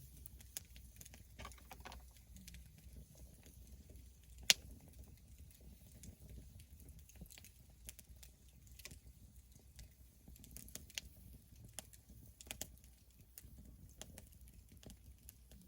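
Campfire crackling: burning wood giving faint, irregular clicks and pops, with one sharp, loud pop about four and a half seconds in, over a faint low rumble.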